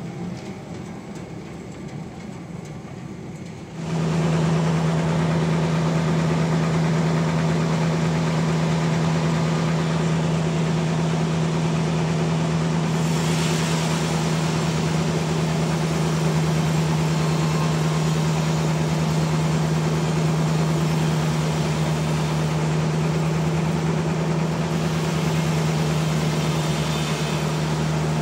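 Sawmill machinery running: a quieter mechanical sound at first, then about four seconds in it gets much louder with a steady hum that holds.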